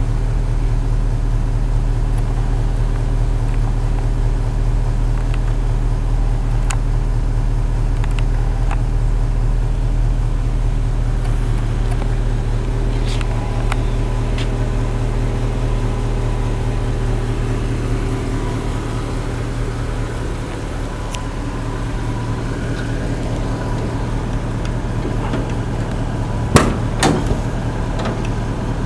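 Ford 351 Windsor V8 idling steadily. A couple of sharp clacks come near the end.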